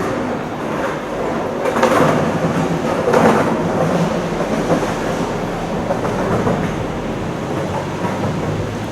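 SBB RABe 503 (ETR 610) electric tilting train running through the station, its wheels clattering over the rails, with louder clatters about two and three seconds in.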